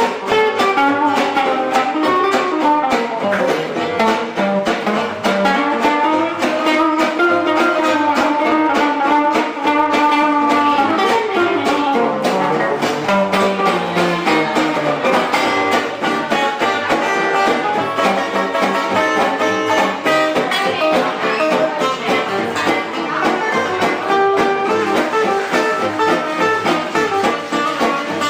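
Live band playing Gypsy-style music, with plucked guitar to the fore and a wavering, gliding melody over it.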